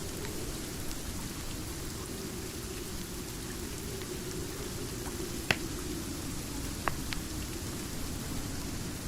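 Steady rain with a few sharp crackles from a wood fire, the loudest about halfway through and two more shortly after.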